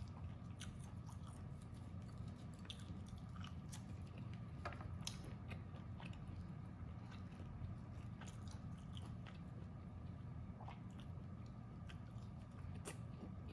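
Close-miked chewing and biting of roast duck: soft, wet mouth sounds with scattered small clicks and crunches, over a low steady hum.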